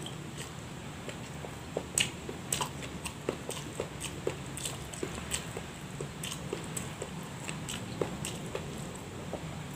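A man chewing and smacking his lips while eating rice and noodles by hand: a run of irregular wet mouth clicks, the sharpest about two seconds in.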